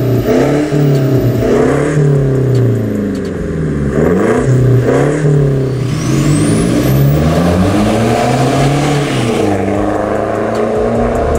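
Toyota Fortuner Legender diesel engine, a four-cylinder turbodiesel retuned to about 200 hp, revving and accelerating, its pitch rising and falling several times.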